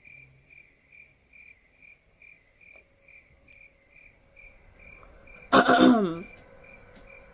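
Cricket chirping sound effect, an even chirp repeated about two or three times a second, the cartoon cue for an awkward silence. About five and a half seconds in, a loud throat clearing cuts in over the chirping.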